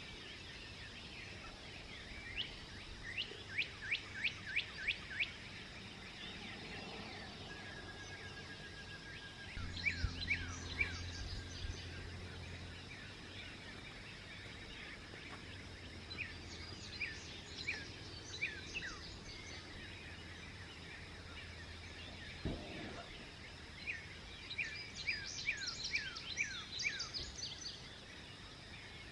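Songbirds singing at dawn: several bursts of quick, high, falling notes, each run lasting a few seconds, repeated four times. A faint low hum runs under the middle stretch and stops about two-thirds of the way through.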